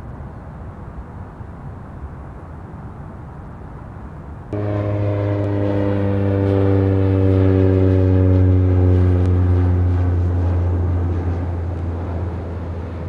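Engines of a departing aircraft at takeoff power, heard as a low rumble and then a loud hum with several pitched tones that slowly fall in pitch. The loud part starts abruptly about four and a half seconds in, swells, and fades near the end.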